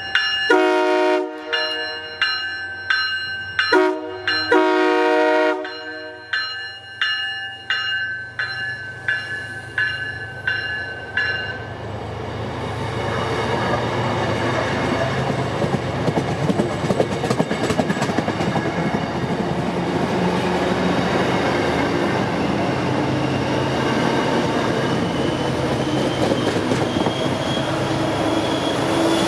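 MBTA commuter rail train arriving with its bi-level cab car leading: two horn blasts in the first few seconds over a bell ringing about twice a second, which stops about 12 seconds in. The coaches then pass close by with a steady, building rush of wheel and rail noise.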